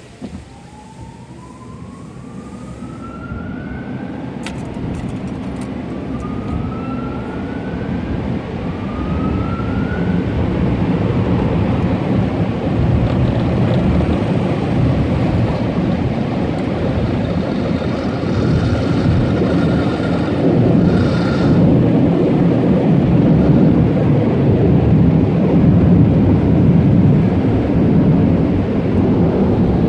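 Automatic car wash equipment: three short rising whines in the first ten seconds, then a loud rushing noise that builds steadily louder.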